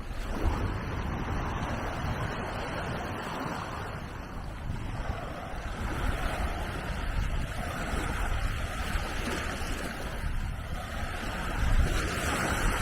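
Mediterranean waves washing onto the beach in gentle swells, with wind rumbling on the microphone.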